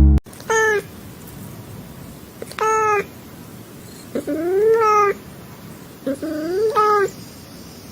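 A cat meowing repeatedly: about five separate meows spaced a second or two apart, the longer ones rising and then falling in pitch.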